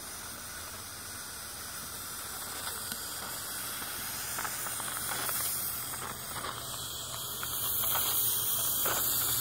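Small steam boiler under pressure, hissing steadily as steam escapes. The hiss grows louder about seven seconds in.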